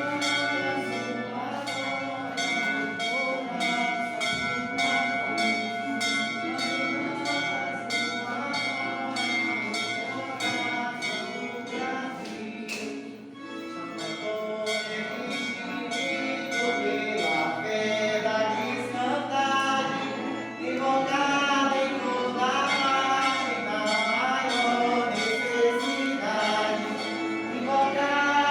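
A bell struck over and over in even strokes, about two a second, with its tones ringing on; it stops about halfway through, and a group of voices then sings a hymn together.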